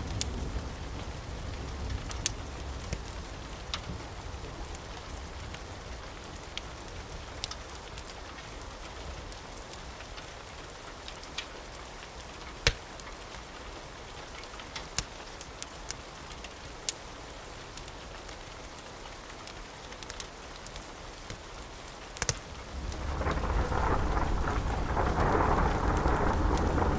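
Steady rain with scattered sharp crackles and pops from a fireplace, and a low thunder rumble dying away over the first few seconds. About 22 seconds in a sharp crack sets off a new roll of thunder that grows louder to the end.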